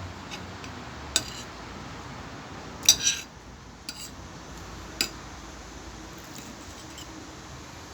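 Cutlery clinking against a plate during a meal: a few sharp separate clicks about a second apart, the loudest double clink about three seconds in.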